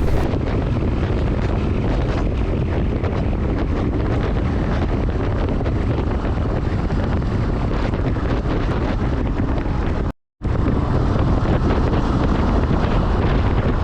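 Steady wind rush on the microphone of a motorcycle riding at speed, mixed with road and vehicle noise. The sound cuts out completely for a moment about ten seconds in.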